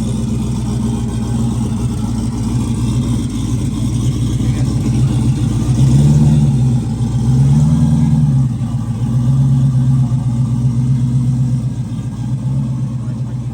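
Race car engine running at a steady idle, revved twice in short swells about six and eight seconds in, each rising and falling in pitch.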